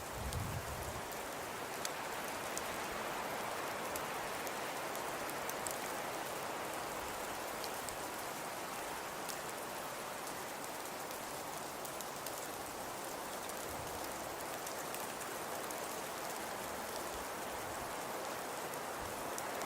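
Crackling fireplace: a steady hiss with sparse sharp crackles and a few soft low thumps.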